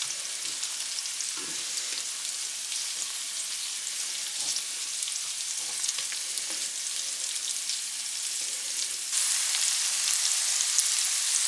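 Vegan sausage frying in a hot pan: a steady sizzling hiss with fine crackles, which gets louder about nine seconds in.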